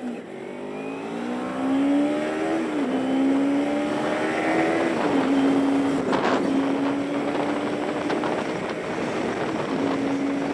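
Kawasaki Ninja 250R's parallel-twin engine accelerating through the gears, the pitch climbing and dropping back at two upshifts in the first five seconds, then running at a steady pitch while cruising.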